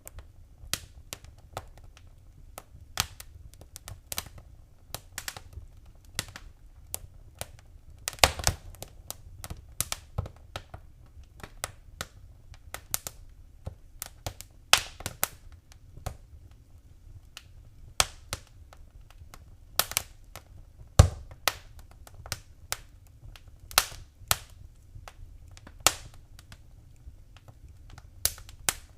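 Wood fire burning in a fireplace, crackling with irregular sharp pops and snaps over a faint low rumble of the flames.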